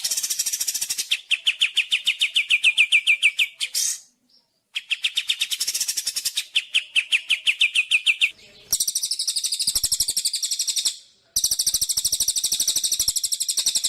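Songbird singing fast, rattling trills in four phrases with short pauses between them; the last two phrases are higher-pitched than the first two.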